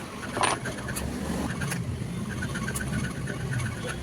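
Sewing machine mechanism running, with a clatter about half a second in and then a rapid, even ticking over a low hum.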